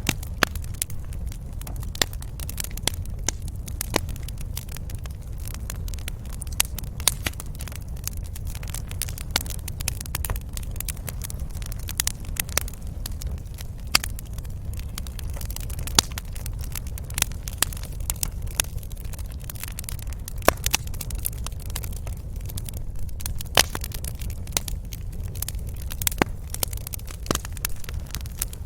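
Wood fire crackling in a fireplace: irregular sharp pops and snaps, several a second, over a steady low sound of burning.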